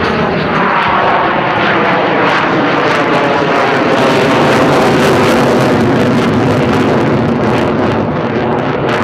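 F-16 fighter jet's engine at full afterburner as it pulls into a near-vertical climb: a loud, continuous jet roar, its pitch sweeping downward in the first couple of seconds as it passes.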